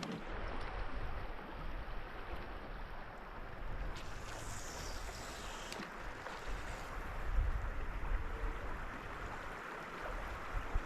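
River water running steadily over rocks, an even rushing, with a brief higher hiss about four seconds in.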